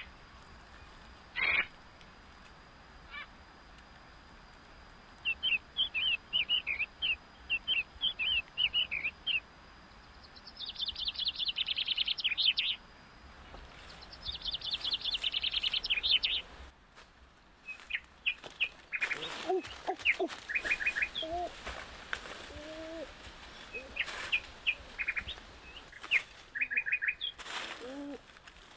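Wild birds chirping and trilling: series of short high chirps and fast trills, with lower whistled calls joining in about halfway through. A faint steady high tone runs under the first half.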